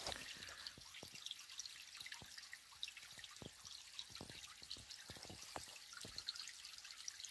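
Small natural stream trickling and dripping, a faint steady rush with many small irregular splashes.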